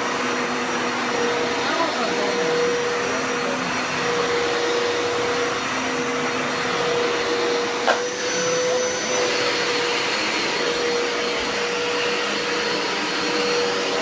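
Hoover TurboScrub carpet cleaner running steadily, its motor giving an even whine. There is a single sharp click about eight seconds in.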